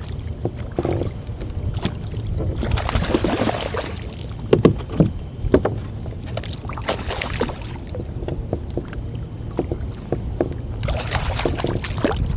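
Water sloshing and splashing around a kayak, with sharp knocks and clicks against the hull around the middle, over a steady rumble of wind on the microphone.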